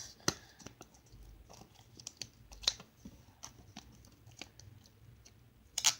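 Stretchy slime being squished and pressed, giving off irregular small pops and clicks, with sharper pops about a quarter second in, near the middle and just before the end.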